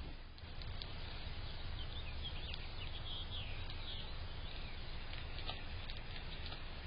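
Small birds chirping, short high calls that cluster about halfway through, over a steady low outdoor rumble.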